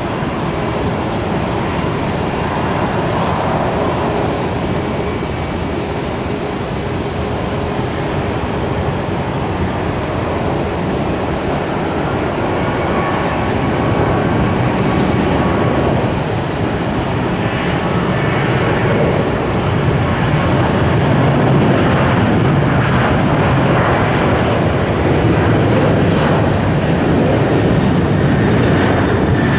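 Jet airliner engines running, a steady rushing noise with a faint whine that slowly grows louder.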